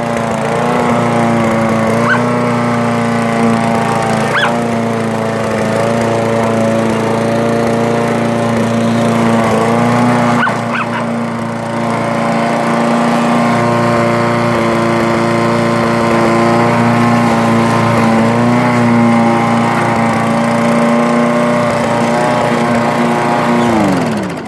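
Lawn mower engine running steadily at a loud level, its pitch wavering slightly, while a pit bull barks a few short times over it. Near the end the engine is shut off and its pitch drops away as it dies.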